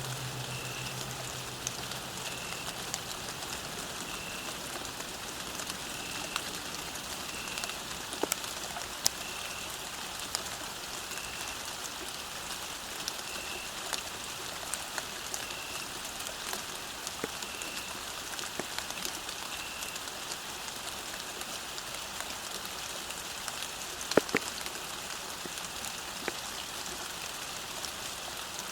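Steady rain falling, with scattered drops tapping and one louder drop about 24 seconds in. A faint short high chirp repeats every second or two through the first two-thirds.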